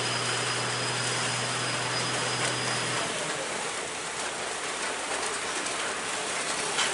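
Steady rushing vehicle noise with a low engine hum that stops about three seconds in.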